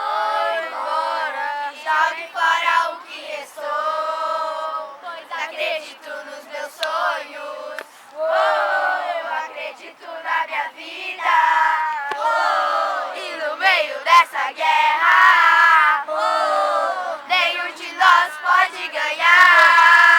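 A group of children singing and chanting together.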